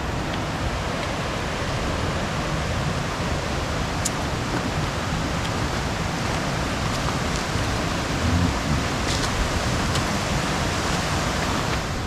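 Steady rush of flowing creek water, with a few faint clicks over it.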